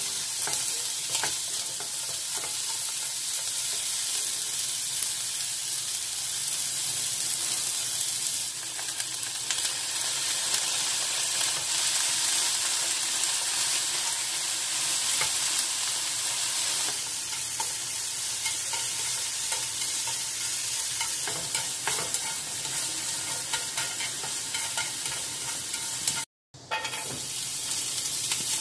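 Sliced onions sizzling in hot oil in a nonstick frying pan as they are stir-fried with chopsticks, with light scraping and clicking against the pan. The sound cuts out briefly near the end, then the sizzling resumes as julienned carrots are tipped into the pan.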